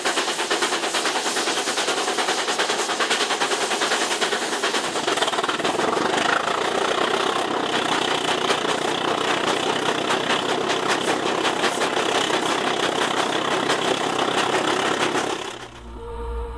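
Locomotive engine running with a steady, rapid clatter. It cuts off sharply near the end.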